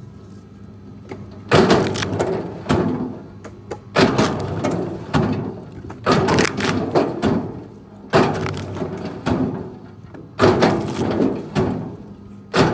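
Wood cracking and crashing again and again, a sudden loud crunch every second or two, each one trailing off over about a second: branches and thin timber being broken or dropped during logging work.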